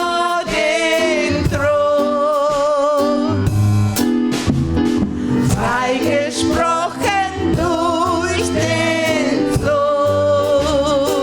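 Gospel singers performing over a band with bass and guitar. Voices hold long notes with vibrato and glide between phrases.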